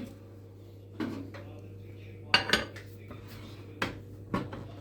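Dishes and cutlery clinking: about five separate sharp knocks spread over a few seconds, over a steady low hum.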